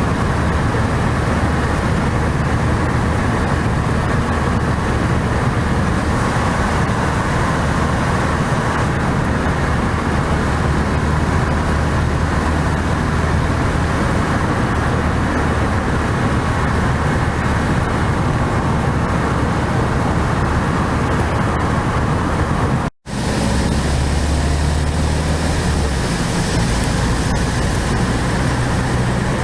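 1969 VW 1500 Beetle's air-cooled flat-four engine running steadily under way, mixed with road and tyre noise. The sound breaks off for an instant about three-quarters of the way through, then carries on.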